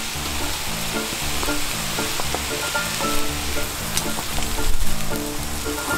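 Gopchang, mushrooms and chives sizzling on a Skeppshult cast-iron pan, a steady frying hiss with a few light clicks.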